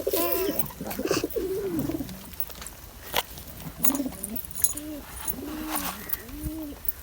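Domestic roller pigeons cooing: a run of short rising-and-falling coos, several overlapping at first, then settling to about one a second in the second half, with a few sharp clicks in between.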